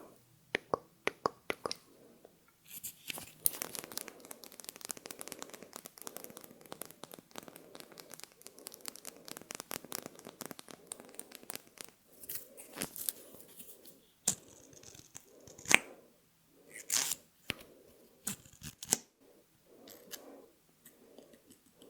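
Close-miked ASMR sounds of cosmetics being handled: a few sharp taps, then a long spell of dense crinkling and crackling, then scattered clicks and brushing swishes.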